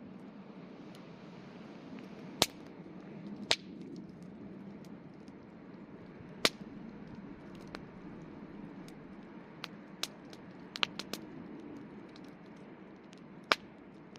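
Wood campfire burning with a steady low rush, broken by sharp pops and crackles at irregular intervals, the loudest about a third of the way in, near the middle and near the end, with a quick cluster a little past two thirds.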